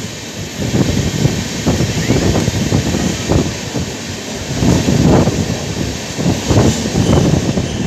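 Passenger train running through a tunnel and out into the open, heard from an open coach window: steady rumble of wheels on rail with irregular wind buffeting on the microphone.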